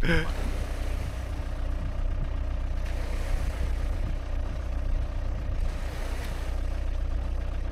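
Car engine running steadily at low revs, a deep even hum with no revving.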